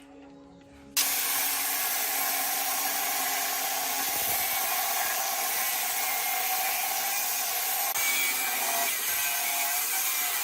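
Steady abrasive grinding noise of a power tool, starting abruptly about a second in.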